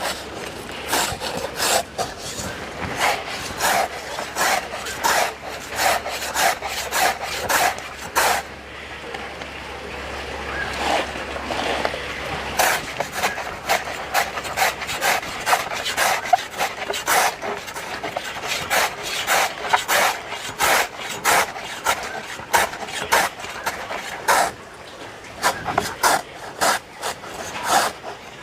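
Repeated rasping, scraping strokes, about two to three a second in uneven runs, easing off briefly twice.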